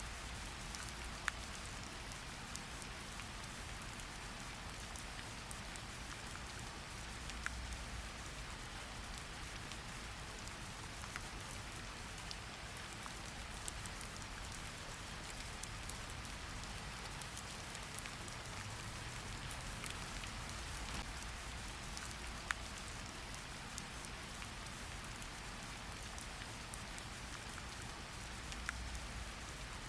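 Steady rain falling, a continuous hiss with scattered individual drops ticking sharply on a surface.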